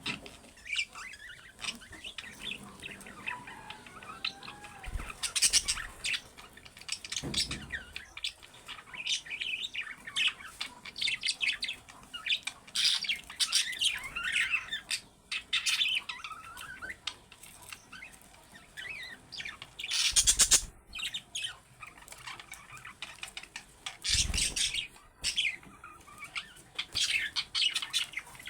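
Budgerigars chattering: a steady stream of chirps, warbles and squawks, with a few louder sudden bursts scattered through it.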